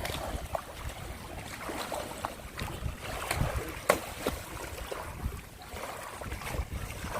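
Wind buffeting the microphone over sea waves, with scattered small splashes and ticks and one sharp click about four seconds in.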